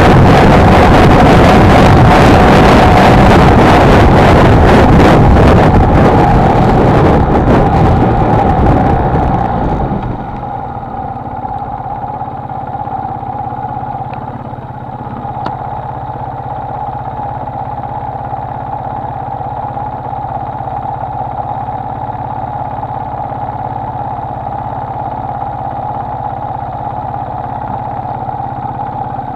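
Honda XLR125R single-cylinder four-stroke engine running under heavy wind noise on the microphone while riding; about ten seconds in, the wind noise falls away, leaving the engine running steadily and more quietly.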